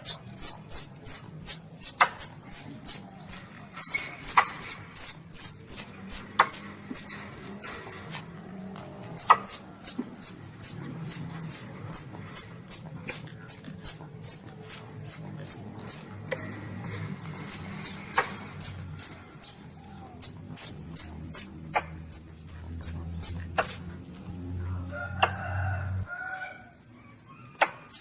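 Young Asian palm civet (luwak) calls, played as a hunting lure recording: a rapid run of short, high-pitched squeaks, each dropping slightly in pitch, about three or four a second, with short pauses. A low steady hum lies underneath and stops near the end.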